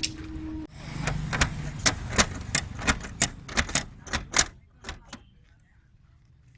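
A run of about a dozen sharp taps or clacks, roughly three a second, that stop about five seconds in.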